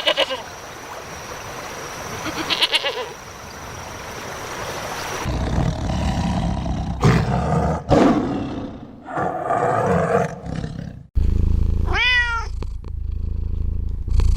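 Animal calls from separate clips: harsh, noisy cries in the middle, then a cat meowing twice near the end, each meow rising and falling in pitch.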